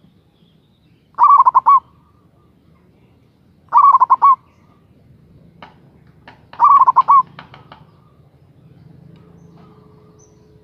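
Local zebra dove (perkutut) singing: three short phrases of rapid, trilled coos, each under a second long and spaced a couple of seconds apart, with a few faint clicks between them.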